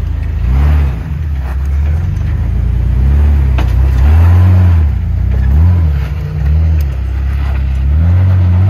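Jeep Wrangler's engine revving up and dropping back again and again under load as it climbs a steep rock ledge, with a few faint knocks.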